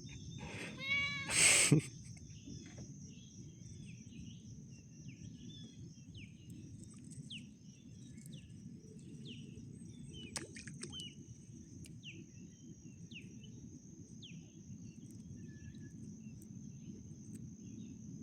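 Outdoor wildlife sounds: a loud, drawn-out meow-like call near the start, then a series of short, high, falling chirps about once a second, over a steady high insect drone and a low hiss of wind and water.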